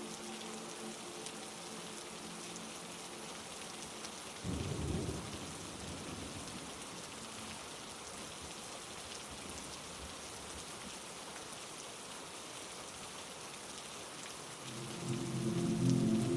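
Steady heavy rain, with a short rumble of thunder about four and a half seconds in. A low held chord of tones fades out early on and swells back in loudly near the end.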